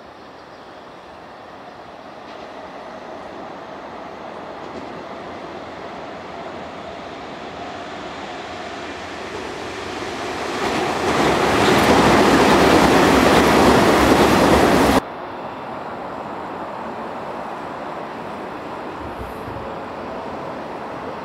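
Nankai electric commuter train approaching and passing close by without stopping, its running noise building steadily to a loud peak as it goes past. About fifteen seconds in the sound breaks off suddenly and gives way to a quieter, steady rumble of more trains approaching on the parallel tracks.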